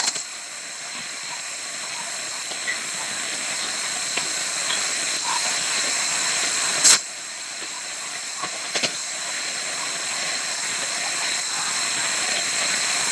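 Steady hiss of hurricane wind and rain, with a sharp knock at the start and another about seven seconds in.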